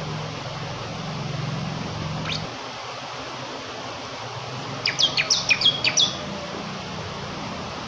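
Bar-winged prinia (ciblek kristal) singing over the steady noise of swiftly flowing water: a single sharp call a little over two seconds in, then a quick burst of high chirps about five to six seconds in.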